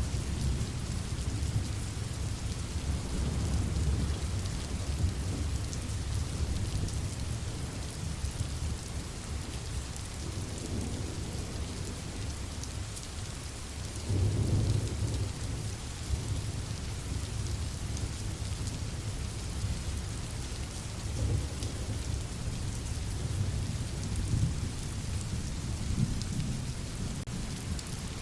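Steady rain with low, rolling thunder rumbling underneath, swelling and fading, the loudest rumble about halfway through.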